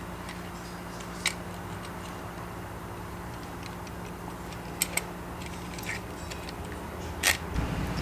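Small metal parts of an exhaust cutout valve assembly, including its spring, washers and spacer, clicking as they are handled and fitted together by hand. There are a few sharp clicks: one about a second in, two in quick succession near the middle, and one near the end, over a steady low hum.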